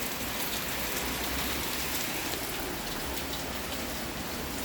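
Heavy rain pouring down during a thunderstorm, a steady hiss of drops striking surfaces close by.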